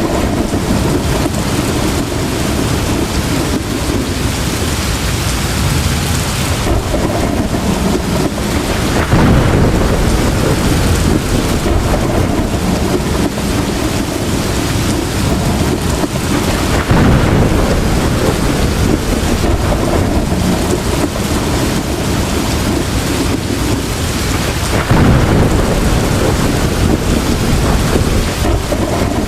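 Heavy rain pouring steadily in a tropical thunderstorm, with low rolls of thunder swelling up three times, roughly eight seconds apart.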